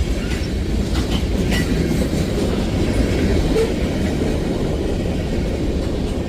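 Freight train rolling past, a steady low rumble of wheels on rail with the clickety-clack of the cars and a few faint metallic clicks.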